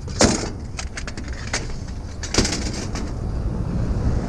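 Aluminum vents clanking and rattling as they are handled and dropped in with other scrap: a sharp knock near the start, another about a second and a half in, and a quick cluster of clatters around two and a half seconds. A low vehicle rumble runs underneath.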